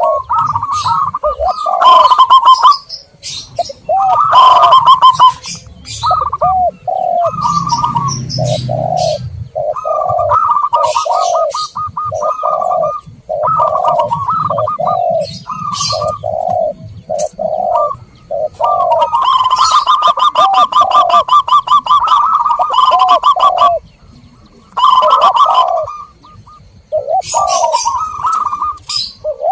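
Zebra doves and spotted doves cooing over and over in a bird-lure recording: rolling trilled coos around a higher pitch and lower arched coo notes beneath, overlapping. High chirps from small birds come in now and then.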